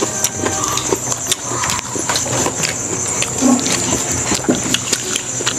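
Close-up eating sounds: chewing and lip-smacking with many small wet mouth clicks, over a steady high-pitched hiss.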